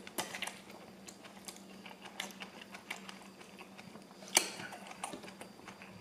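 Close-up mouth sounds of chewing rice noodles, a run of small wet clicks and smacks. A single sharper click comes about four seconds in.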